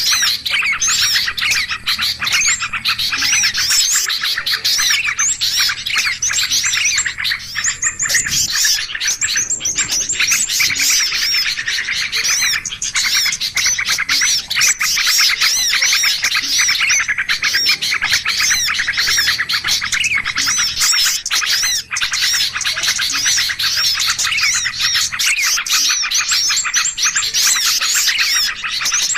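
A dense, noisy chorus of many small songbirds chirping and trilling at once, without pause. It is a bird-lure call ('suara pikat ribut') played to draw small birds in.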